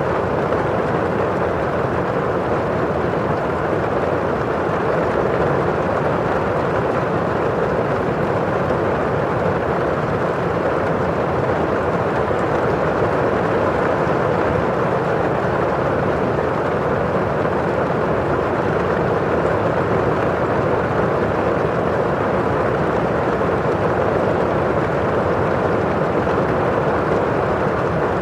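Rain falling on a windowpane: a constant, even rain hiss, dull and low in tone, with no single drops standing out.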